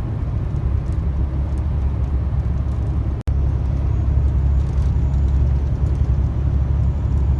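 Steady low drone of a truck's engine and tyres heard inside the cab while driving, broken by a split-second dropout about three seconds in.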